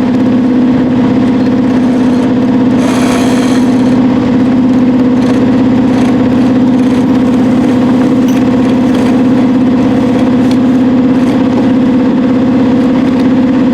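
Sailboat's auxiliary engine running steadily under way, a constant drone, with a brief hiss about three seconds in.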